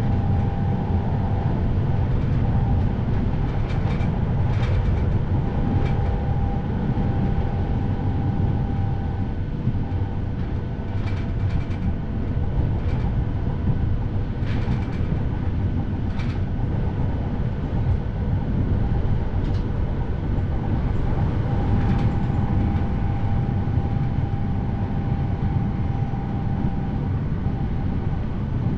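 Passenger train running along the track, heard from inside the carriage: a steady low rumble of wheels on rails, with scattered clicks and a faint whine that comes and goes.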